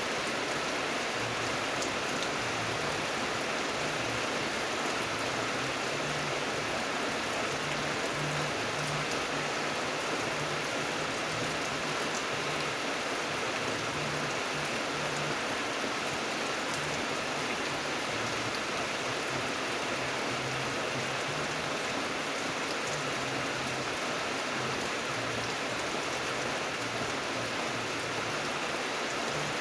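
Steady rain falling, an even hiss of rain on a surface with fine drop patter throughout.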